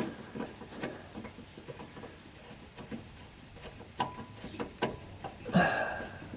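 Scattered light metallic clicks and taps of a transmission bolt and tools being worked by hand into a misaligned bolt hole, with a brief louder sound near the end.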